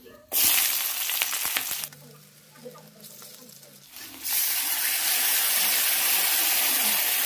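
Sliced onion and garlic frying in hot oil in a steel kadai, with a spatula scraping. A loud sizzle starts suddenly just after the start, drops away for about two seconds, and then comes back as a steady, loud sizzle from about four seconds in.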